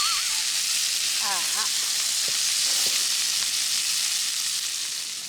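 Hamburger steaks sizzling in oil on an iron griddle over a strong wood fire: a steady frying hiss that fades near the end. Two brief pitched chirps sound near the start and about a second in.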